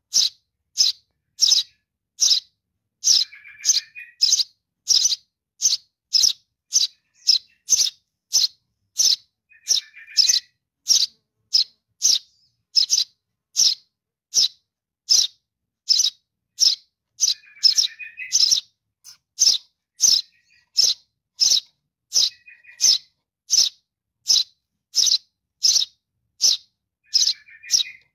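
Fledgling Eurasian tree sparrow begging calls: short, sharp, high chirps repeated evenly about twice a second, calling for its parent to be fed. A lower, softer twitter comes in every six or seven seconds.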